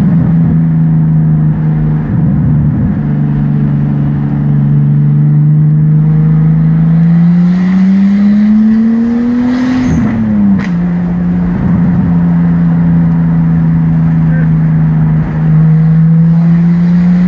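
Turbocharged car engine running under way at steady revs. About seven seconds in the revs climb, then drop sharply near the ten-second mark with a short burst of hiss, before it settles back to a steady pull.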